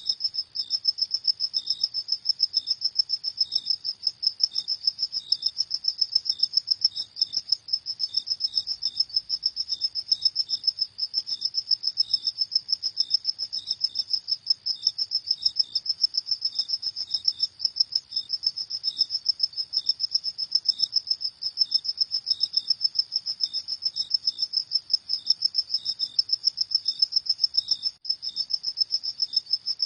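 Crickets chirping at night in a steady, rapid, high-pitched pulsing trill that never pauses, with a second, softer chirping just below it.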